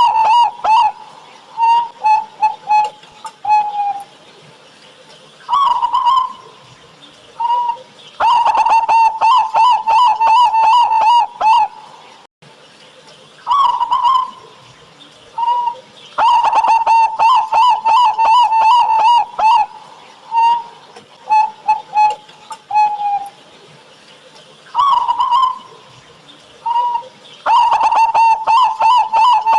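Local Indonesian zebra dove (perkutut) cooing. Long bouts of rapid staccato coos on one pitch last a few seconds each, near the start, from about eight to twelve seconds, from sixteen to nineteen seconds and again near the end, with short single coos between them.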